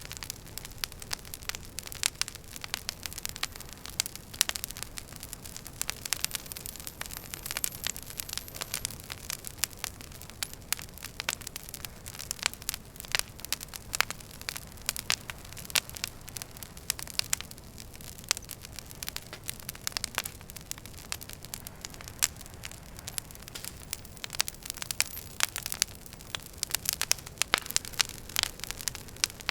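Wood fire in a fireplace crackling, with frequent irregular sharp pops and snaps over a low, steady rush of the flames.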